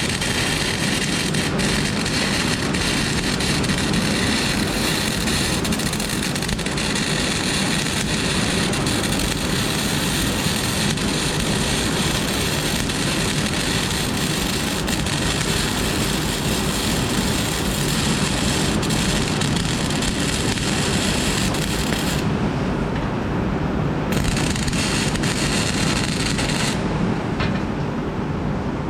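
Flux-core arc welding: the arc gives a loud, steady hiss. It stops abruptly about 22 seconds in, strikes again about two seconds later, and stops again near the end.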